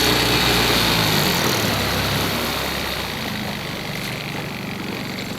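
Boat engine idling with a steady low hum that drops away about three seconds in, leaving an even hiss.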